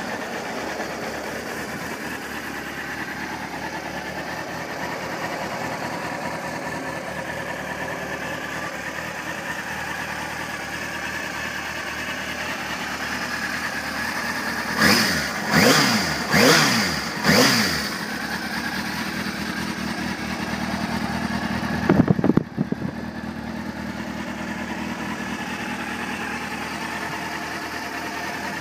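Kawasaki ZX-6R 636's fuel-injected 636cc inline four-cylinder engine idling steadily, revved four times in quick succession about halfway through, the pitch rising and falling each time, then given one short blip a few seconds later before settling back to idle.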